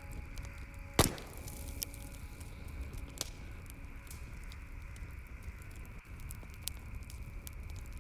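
Wood campfire crackling: scattered small snaps and pops over a low steady rumble, with one loud sharp pop about a second in.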